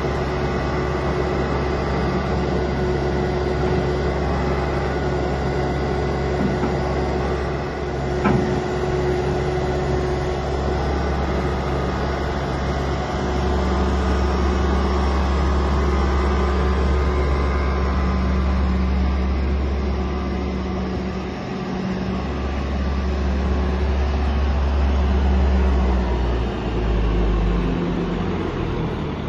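Bobcat S450 skid-steer loader's diesel engine running under working load, its note rising about thirteen seconds in, dipping briefly near twenty-two seconds and stepping up and down near the end as the machine is worked. A single sharp knock about eight seconds in.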